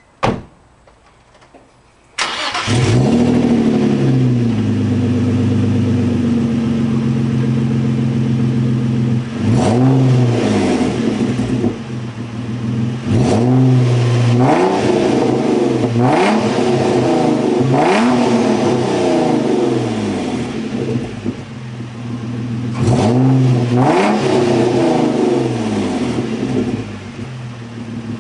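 Twin-turbo Nissan 350Z's 3.5-litre V6, breathing through custom downpipes and an N-Vidia exhaust, firing up about two seconds in after a short click. It then settles to idle between a series of quick throttle blips that rise and fall sharply, and drops back to a steady idle near the end.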